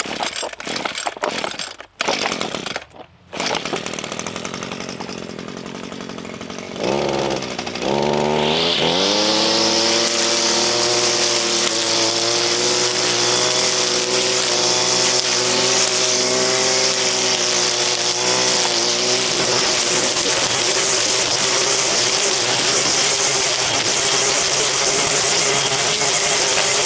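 A gas-powered string trimmer (weed whacker): a few knocks first, then the engine catches about seven seconds in. It revs up to full throttle and runs steadily at high speed, loud, as it cuts weeds.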